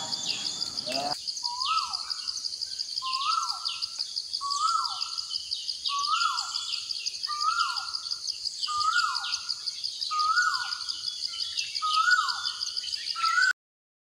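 Birdsong ambience: one bird repeats a short call about every second and a half, each call rising then dropping, with fainter chirps from other birds over a steady high-pitched drone. The sound changes abruptly about a second in and cuts off suddenly near the end.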